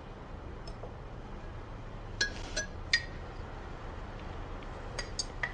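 Glasses and dishes clinking on a table: a few short ringing clinks about two seconds in, then a few more near the end.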